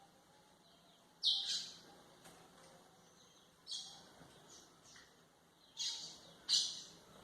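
Golinha (white-throated seedeater) singing in short, high-pitched phrases: one a little over a second in, one near four seconds, and two close together near six seconds.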